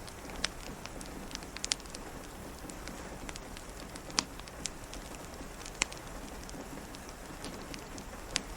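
Steady rain pattering on a window, with a wood fire crackling: scattered sharp pops, the loudest about four and six seconds in.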